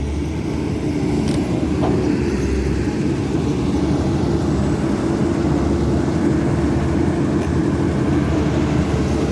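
Caterpillar 320D2 hydraulic excavator working, its diesel engine and hydraulics running with a steady drone and hum.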